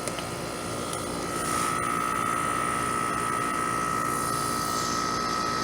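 Trane central air conditioner's outdoor condenser unit running, its fan and compressor going steadily, with a steady high whine that grows a little louder about a second and a half in.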